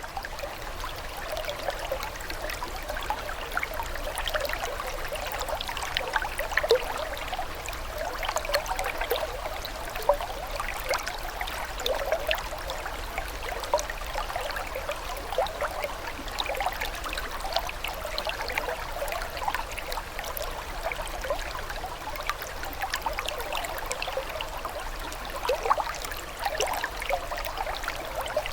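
Running water trickling and burbling steadily, with a constant patter of small plinks and splashes.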